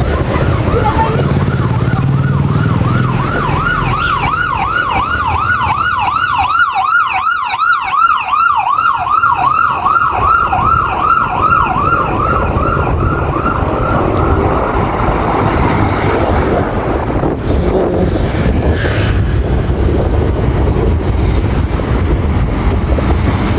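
Emergency vehicle siren in a fast wavering yelp, about three rises and falls a second. It grows louder and then fades away about halfway through, over steady road traffic and engine noise.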